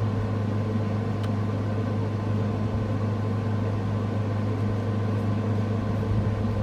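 Steady low mechanical hum with a faint click about a second in.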